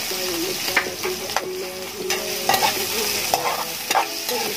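Sliced onions sizzling as they sauté in hot oil in a wok, while a metal spatula stirs them and clinks and scrapes against the pan several times.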